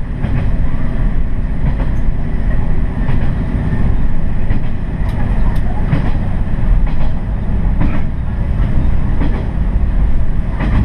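Diesel railcar running along the line, heard from inside the train: a loud, steady engine and wheel rumble with a few sharp rail-joint clicks in the middle of the stretch.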